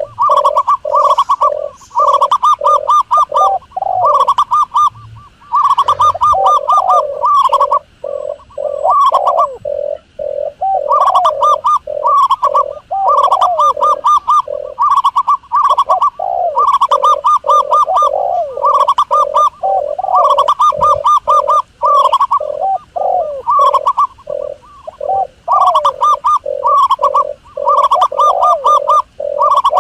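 Doves cooing: phrases of quick, repeated coos, each lasting a second or two with short gaps between them.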